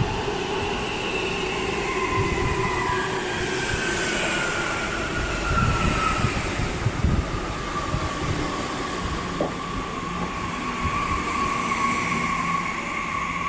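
Regional express train with double-deck coaches running past close by: a steady rumble of wheels on rails, with whining tones that slide slowly down in pitch.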